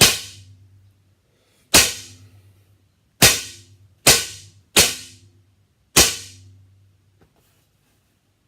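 Topoint R3 recurve bow dry fired six times, the string snapping forward with no arrow, each a sharp crack with a brief ringing of string and limbs; the last four come in quicker succession.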